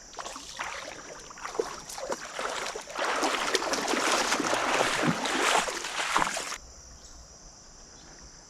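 Water splashing and sloshing in bursts, loudest for about three and a half seconds in the middle and then stopping abruptly, over the steady rush of a creek.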